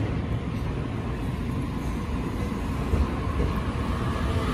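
JR East E259 series Narita Express electric train pulling out of the station, its cars rumbling past on the rails as it gathers speed.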